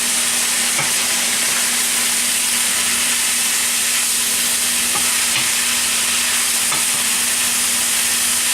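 Chicken, green beans and peppers sizzling in oil in a wok on high heat: a steady frying hiss, with a few light scrapes and taps of the stirring utensil and a steady low hum underneath.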